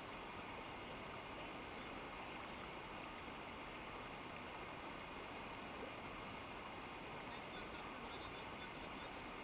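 Steady rush of running water, as from a mountain river or waterfall, an even noise that does not change.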